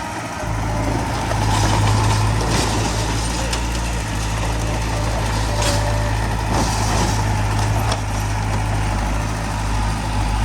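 Heavy diesel earthmoving machinery running steadily, with scattered clanks and scraping noises.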